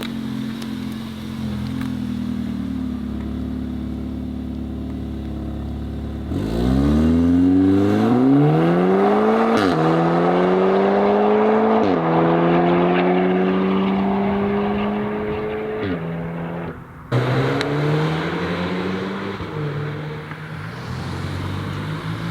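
Volkswagen car engine running at low revs, then pulling away hard about six seconds in, its pitch climbing and dropping back through three quick upshifts. Near the end the sound cuts suddenly to an engine running at lower revs.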